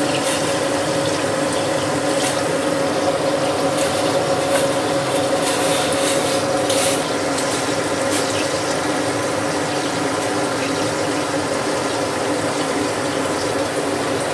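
Onion and ginger-garlic paste sizzling steadily in hot oil in a steel kadhai, with water boiling in a pot and a steady hum underneath. A few light splashes and clicks come as paneer cubes are dropped into the boiling water.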